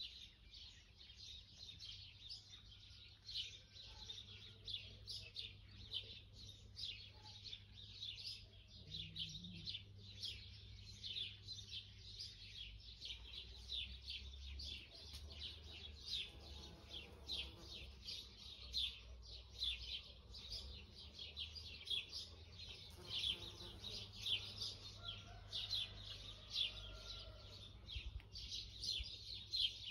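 Small birds chirping rapidly and continuously, several short chirps a second, over a faint low rumble.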